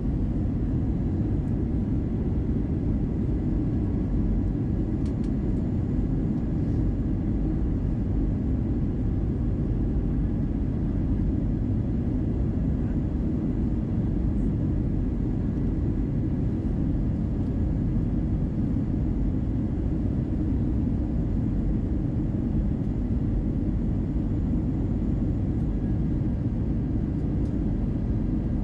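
Steady low rumble inside the passenger cabin of an Airbus A320-200: the CFM56 engines and airflow, holding an even level throughout.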